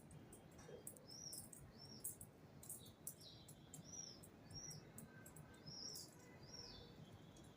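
Faint bird chirping: a string of short, arched, high chirps, about one a second, mixed with quick high ticks.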